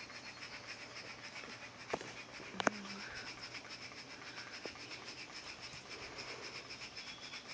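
Faint, evenly pulsing chirping of insects, with two sharp clicks about two and two and a half seconds in; no thunder is heard.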